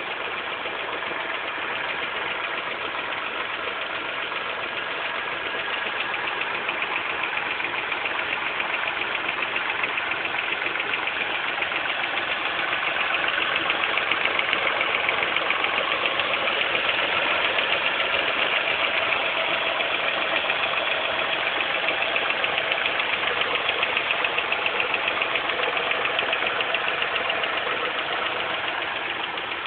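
Car engine running with a steady, fast rhythmic chatter that grows somewhat louder midway through, a noise the owner suspects may come from a worn-out belt.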